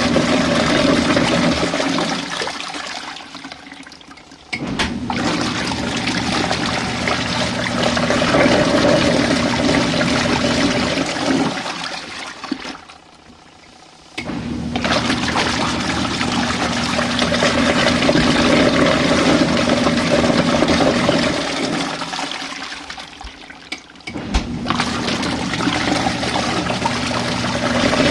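RV washing machine running with water churning in the tub over a steady motor hum. The sound fades and drops out, then starts up again sharply, about every ten seconds, three times over.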